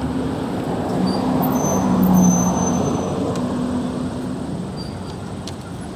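Motor vehicle passing by, its engine and road rush growing louder to a peak about two seconds in, then fading away.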